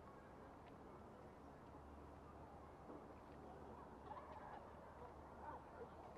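Faint, short bird calls, a few in quick succession in the second half, over a low steady hum.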